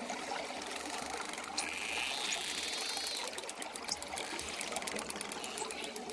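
Dolphin sounds over a steady watery hiss: a short whistle, then a few quick rising-and-falling chirps, then fast trains of clicks for a couple of seconds.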